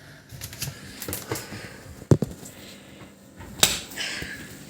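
Clicks and knocks of dishwasher parts being handled during disassembly: a few light ticks, then two sharper knocks about two seconds in and a second and a half later.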